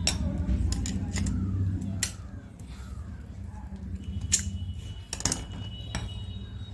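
Sharp metallic clicks and knocks, about seven spread irregularly, from hands and tools working on a rotary hammer drill to free a stuck bit. A low steady rumble runs underneath.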